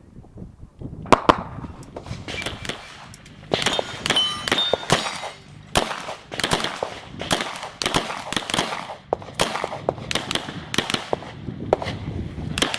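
A string of handgun shots fired in quick groups, with steel targets clanging and briefly ringing as they are hit.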